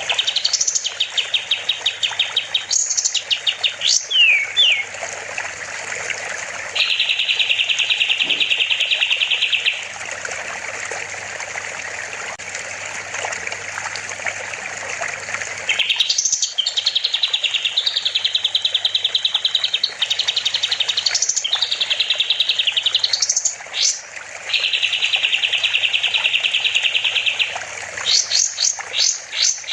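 Kapas tembak songbird singing in fast chattering trills and quick rising chirps, with two long, even, buzzy trills of about three seconds each, over a steady rush of running water.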